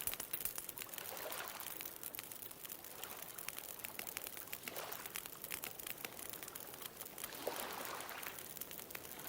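Wood bonfire crackling with frequent small pops and snaps, over ocean waves washing in and out, the surf swelling several times.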